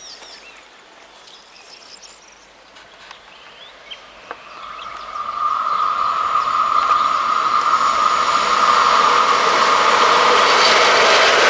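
Approaching class 140 electric locomotive hauling a container freight train. A steady high tone from the rails and wheels sets in about four seconds in, and the rushing noise of the train grows louder toward the end.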